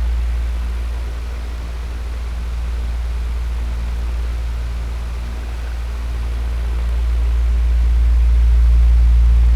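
Electric fan running steadily: a low motor hum under an even, airy hiss, the level slowly dipping and then swelling back up.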